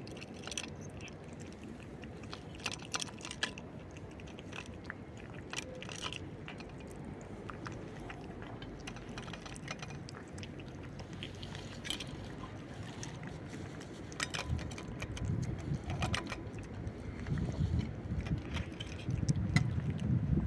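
A cat crunching dry food: scattered sharp crunches, in clusters, over a low rumbling noise that grows louder toward the end.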